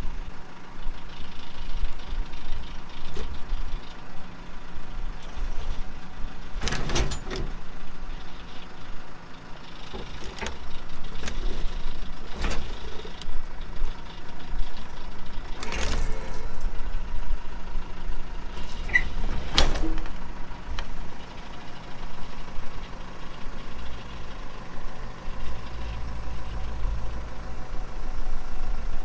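Tractor engine running steadily while a snowblower is hooked onto its three-point hitch, with about five sharp metal clanks spread through the middle as the hitch and snowblower frame meet.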